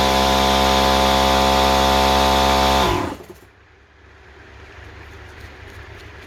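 A motor-driven machine running at a steady speed, switched off about three seconds in and winding down quickly, its pitch dropping as it stops. A quieter low rumble with scattered light ticks follows.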